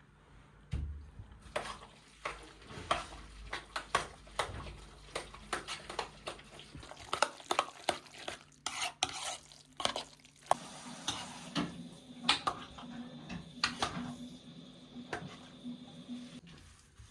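Kitchen utensils knocking and clinking against dishes and pots in quick, irregular strokes, as in stirring and handling cookware.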